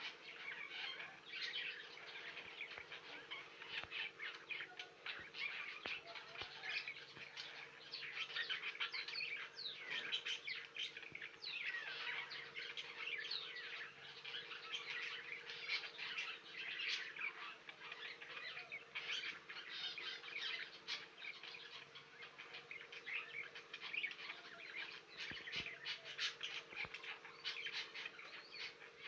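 Budgerigars chattering and warbling in a continuous stream of quick chirps and short whistles, the busy chatter of a pair mating. A faint steady hum runs underneath.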